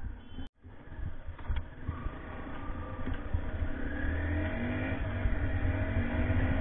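KTM Duke motorcycle engine pulling away and accelerating, its note rising for a couple of seconds and then holding steady as it cruises.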